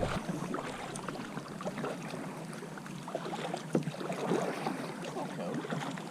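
Kayak paddles dipping into lake water: a scatter of small splashes and drips, one a little louder nearly four seconds in.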